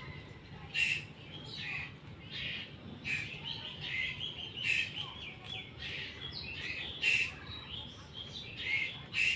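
A bird calling: short sharp chirps every second or so, with a quick run of chattering notes in the middle.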